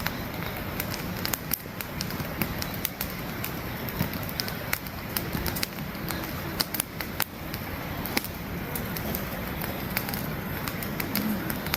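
Wood campfire burning, with irregular sharp crackles and snaps from the logs over a steady low rushing noise.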